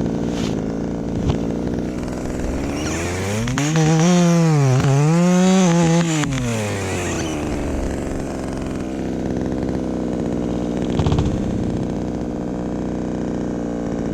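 Two-stroke chainsaw running at idle, then revved up about three seconds in. It holds high revs with a brief dip in the middle, then drops back to idle a few seconds later.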